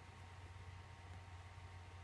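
Near silence: a faint steady low hum with background hiss.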